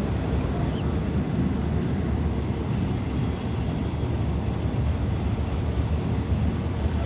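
Steady low rumble of a passenger train running along the track, heard from inside a carriage with the window open.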